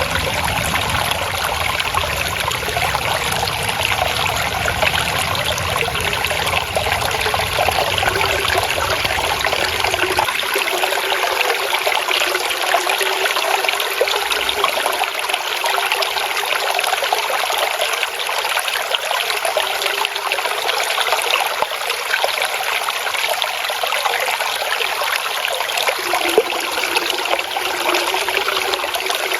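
Flowing water trickling and gurgling steadily, like a small stream running over stones. A low rumble underneath drops away about a third of the way in.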